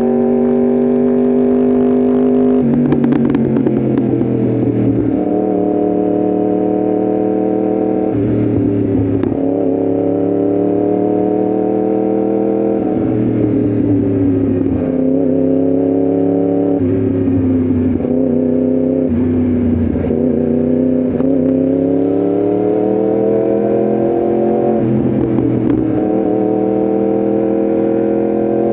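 Yamaha R1M's crossplane inline-four engine under way, pitch climbing as it pulls through the revs and dropping sharply at each gear change, several times over.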